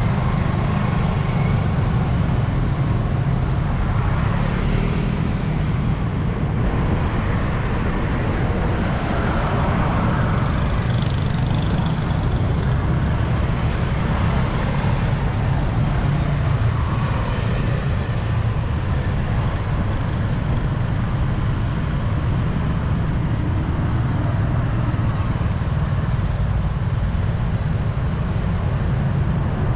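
Steady city road traffic passing close by, with swells as vehicles go past every few seconds. A constant low rumble sits underneath, typical of wind on the microphone while riding.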